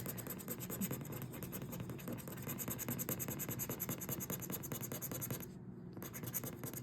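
Rapid scraping of the coating off an Ohio Lottery Cash Explosion scratch-off ticket, many quick strokes in a row, with a short pause about five and a half seconds in.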